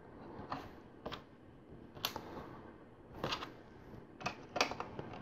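Plastic LEGO bricks clicking and rattling as pieces are handled and pressed together, a scatter of small sharp clicks with a cluster of them a little past halfway.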